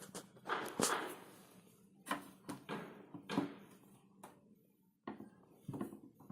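A coin pressing and scraping on the plastic filter access cover of a front-loading washing machine, giving a series of short clicks, knocks and scrapes as the cover is worked loose.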